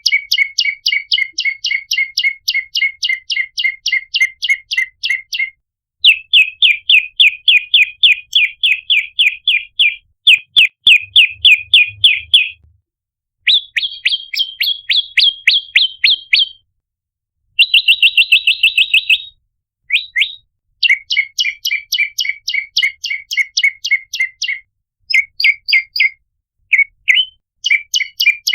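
Prenjak lumut call: rapid trains of sharp, high chirps, about four to five a second, in bursts of a few seconds separated by short pauses, the pitch of the notes shifting from burst to burst. It is a lure recording used to call in wild prenjak.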